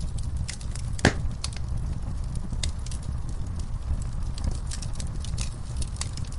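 Wood fire crackling in a fireplace: a steady low rumble of the flames with scattered sharp pops and snaps, one louder pop about a second in.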